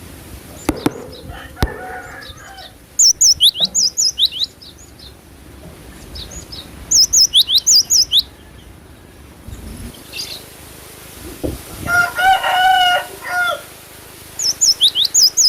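Cinereous tit (gelatik batu) singing in three bursts of rapid, sharp, high down-slurred notes. Around twelve seconds in, a lower, drawn-out call with several stacked tones, and a few clicks near the start.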